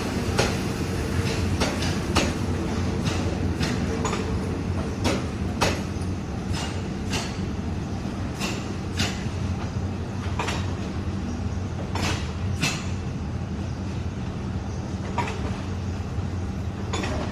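A passenger train hauled by an Alsthom diesel locomotive running along the track: a steady low hum with the wheels clacking over rail joints at an uneven beat, about one or two clacks a second.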